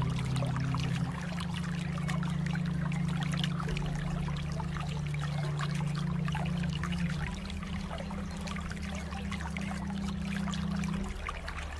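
Water trickling and babbling steadily, with a soft low drone of held notes underneath that shift pitch every few seconds.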